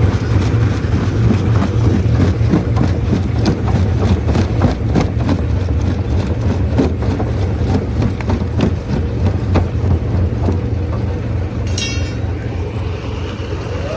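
Stone crusher running: a steady low mechanical drone with many sharp knocks and cracks of rock being broken. A brief high squeal comes near the end.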